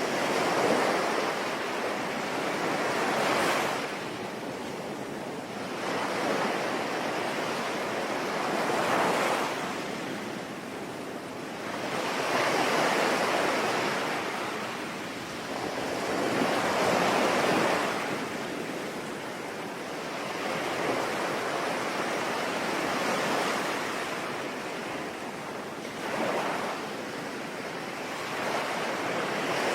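Sea waves washing in and receding in slow swells every few seconds, over a steady hiss of rain.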